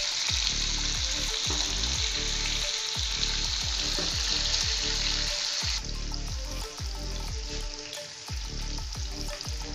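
Chicken pieces frying in hot oil in a karahi (wok), a steady sizzle that drops to a quieter sizzle about six seconds in.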